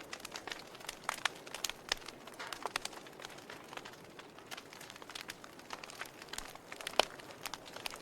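Logs burning in a fireplace, crackling: irregular sharp pops and snaps over a soft hiss, with one louder pop about seven seconds in.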